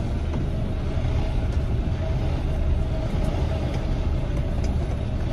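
Tractor-trailer's diesel engine running at low speed during a backing manoeuvre: a steady low rumble heard from inside the cab, with a faint steady higher tone over it.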